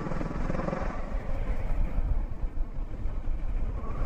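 Motorcycle being ridden on the road: engine and road noise heard as a low, uneven rumble.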